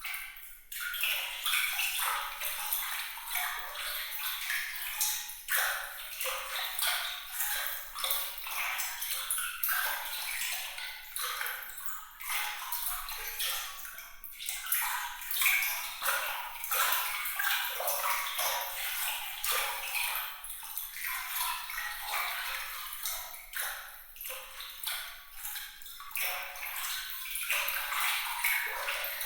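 Water trickling and splashing in a continuous run of small, bright drips and plinks, with no deep sound under them: the 'glittering' water sound of a relaxation sound effect.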